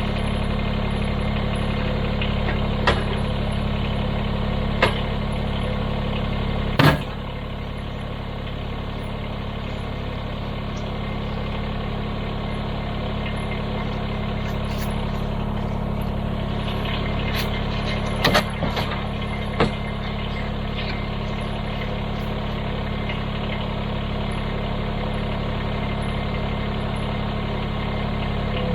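Kubota BX23s compact tractor's three-cylinder diesel running steadily. Several sharp knocks and cracks sound over it: a loud one about seven seconds in, after which the engine runs slightly quieter, and a few more near the three-quarter point.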